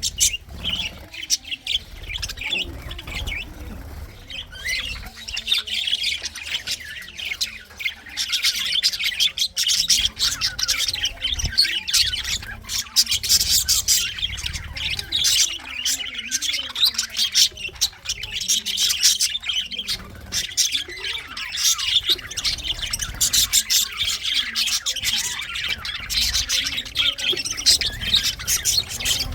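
A flock of budgerigars chattering nonstop with frequent squawks and chirps, growing busier a few seconds in.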